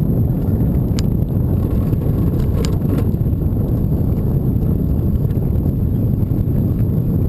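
Steady, loud rumble of wind buffeting the microphone during a bike ride, with a few faint clicks about a second in and again near three seconds.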